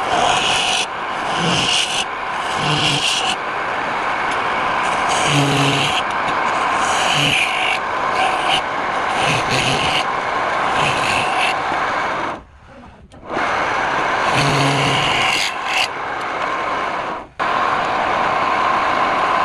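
Wood lathe running while a turning tool scrapes and rubs against the spinning wood, the noise dense and uneven, dropping out abruptly twice, at about twelve and a half and seventeen seconds in.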